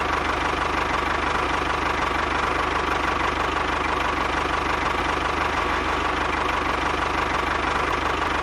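A small motor running steadily with a fast, even rattle and a constant whine, unchanging throughout.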